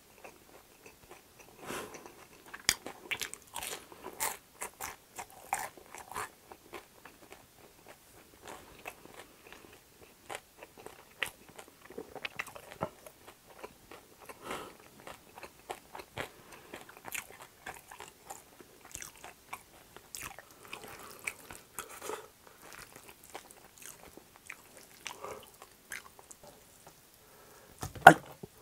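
Close-miked chewing of a crispy pan-fried dumpling, with dense crunching and crackling bites and wet mouth sounds. A single loud knock comes near the end.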